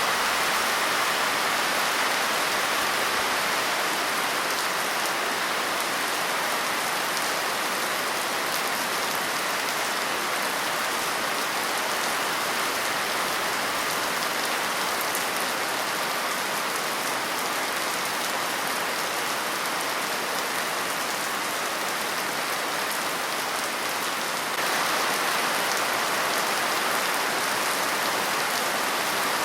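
Steady rain falling and pattering on surfaces, an even hiss with no let-up, growing slightly louder near the end.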